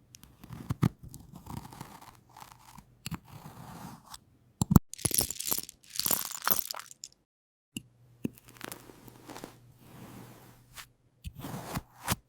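Close-miked crunching and scraping, in irregular bursts broken by sharp clicks, with a short gap about seven seconds in.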